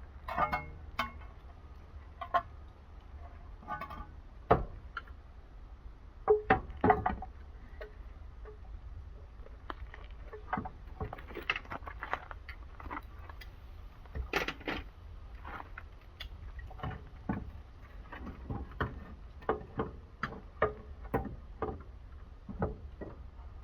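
Irregular clinks and knocks of metal hand tools and suspension parts during front-end repair work on a car, a few louder clanks among them, over a steady low rumble.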